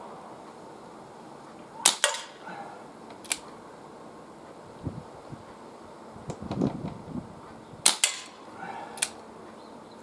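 Webley Mk6 CO2 air revolver in .22 firing two shots about six seconds apart, each a sharp crack followed almost at once by a second snap, with a lighter click a second or so after each shot. A short low rumble comes between the shots.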